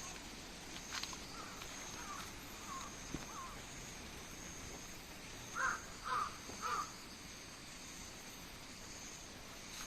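A crow cawing: a few faint caws in the first few seconds, then three louder caws in quick succession about halfway through.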